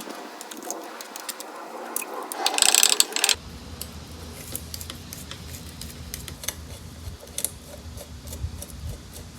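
Hand tools working bolts, with a ratchet wrench clicking: a loud fast run of clicks about three seconds in, then scattered metallic clicks and taps.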